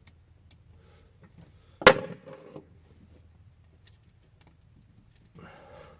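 A sharp metal clink about two seconds in, a tool or fitting knocking against metal during hand work on the alternator wiring, followed by a fainter tick near four seconds.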